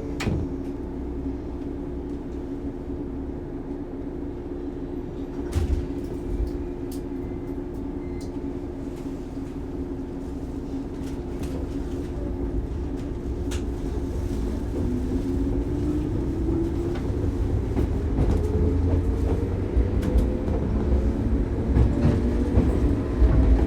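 Shinano Railway 115 series electric train pulling away: a steady hum at first, then, from about halfway through, the DC traction motors' whine rising in pitch as the train gathers speed. Occasional clicks and knocks, with the running noise growing louder.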